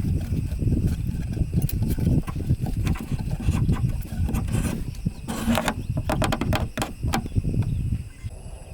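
Wood being worked by hand: uneven scraping and rubbing with many irregular clicks and knocks, easing off near the end.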